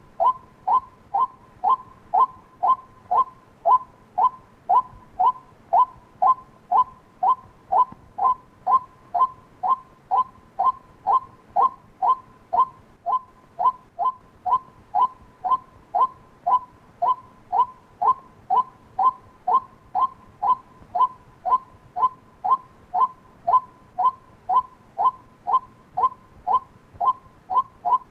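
White-breasted waterhen call: short 'kwak' notes repeated evenly, about two a second. It is a decoy call played to lure waterhens in daytime.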